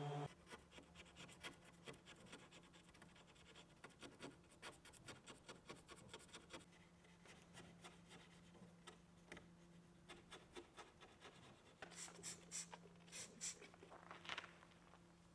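Faint scratching and rubbing with many light clicks. A few louder scrapes come near the end, over a faint steady hum.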